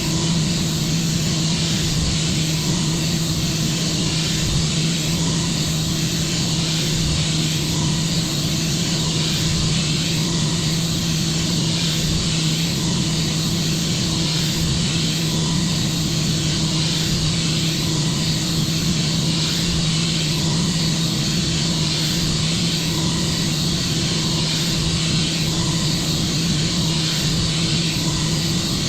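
Microwave oven running: a steady electrical hum with a constant hiss over it.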